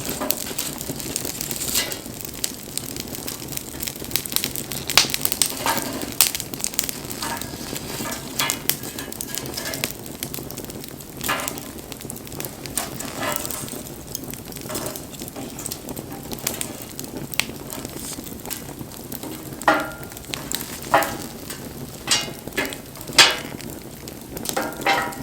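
Wood fire burning with a steady hiss and irregular sharp crackles and pops, several louder pops near the end.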